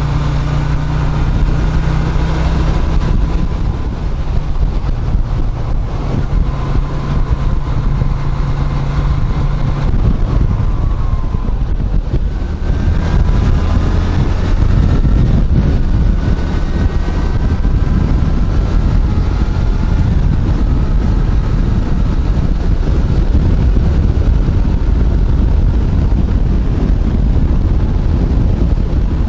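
Yamaha Virago 250's V-twin engine droning steadily while riding, heavily mixed with wind noise on the microphone. Faint tones glide up and down in the middle of the stretch.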